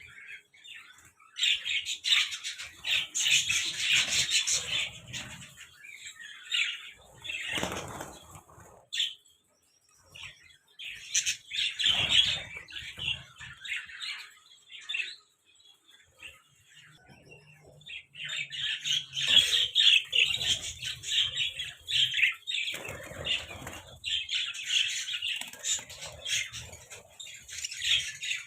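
Budgerigars chattering and chirping, in busy bursts with short lulls between them.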